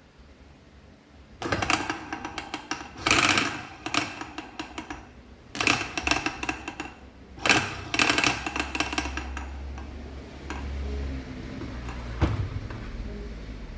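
Several bursts of rapid metallic clicking and rattling, each lasting a second or so, from hand work on the parts of a dismantled air-suspension compressor. A quieter low hum follows, with a single sharp click near the end.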